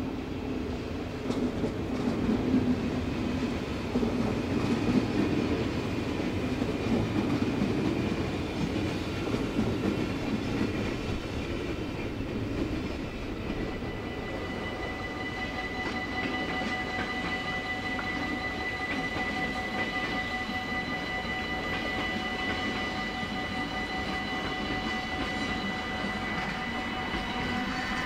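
A passenger train runs past on the tracks of a Dutch level crossing. About halfway through, the crossing's warning bells start ringing steadily, signalling that another train is approaching, and that train is running past near the end.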